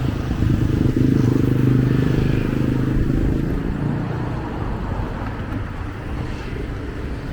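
A motor vehicle's engine running close by, loudest in the first couple of seconds and fading away after about three seconds, over street noise.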